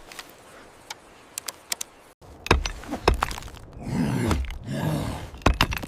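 A series of sharp knocks and thuds, with a low groan-like sound about four to five seconds in.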